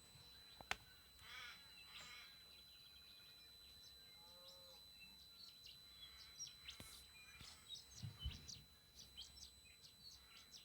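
TriStar TS-MPPT-60 solar charge controller giving off a steady, faint high-pitched squeal, a constant tone. The owner hears this squeal mostly first thing in the morning and last thing at night, and as the controller switches between MPPT and absorption charging stages. Birds chirp and trill over it, with one sharp click near the start.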